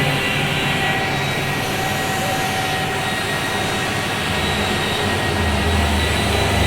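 Metal lathe running with a steady machine noise and a faint constant whine; a deeper hum comes in about four seconds in.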